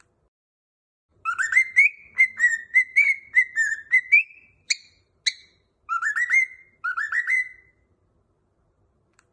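A whistled tune in short, clear phrases of quick upward-slurring notes, as used to teach a cockatiel to sing. A run of notes comes about a second in, then two single chirps, then two shorter phrases, with dead silence between them.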